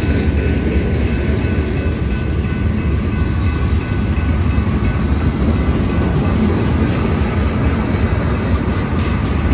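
Train rolling past on the rails: a steady, loud rumble of rail cars that does not let up.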